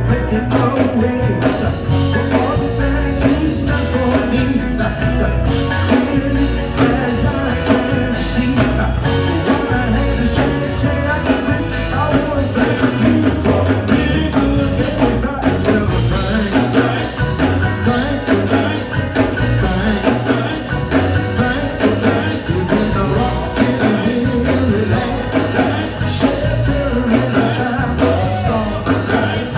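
A song performed live: a man singing over a band, with the bass pulsing in a steady beat.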